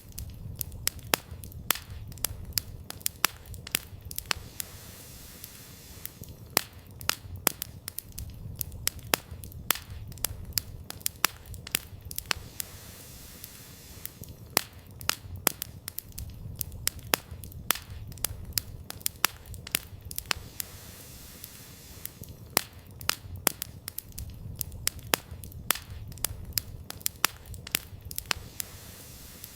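Campfire burning steadily, with irregular sharp crackles and pops of firewood, often several a second, over a low rumble of the flames.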